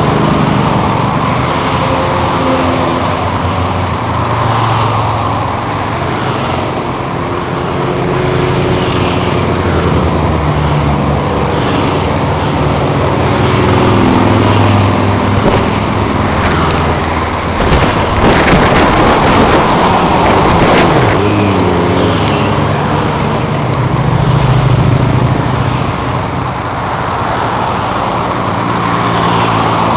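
Motorcycle engines running steadily at road speed as a convoy rides along, over road and wind noise. Between about 18 and 21 seconds in, a louder vehicle goes past, its pitch falling as it passes.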